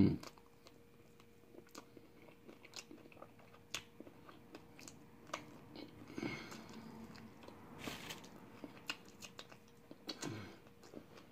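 A person chewing fried chicken wing: soft, scattered mouth clicks and small bites, quiet throughout.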